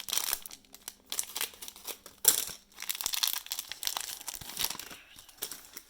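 Plastic trading-card pack wrappers crinkling as packs are handled and opened, a run of irregular crackles with the loudest burst a little over two seconds in.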